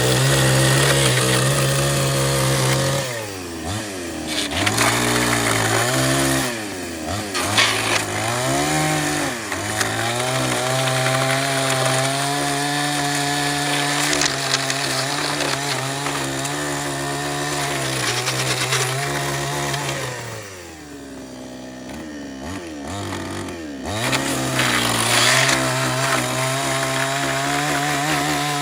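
A two-stroke chainsaw running at high revs, its note dipping and recovering several times. About two-thirds of the way through it drops to a lower, quieter run for a few seconds before revving back up.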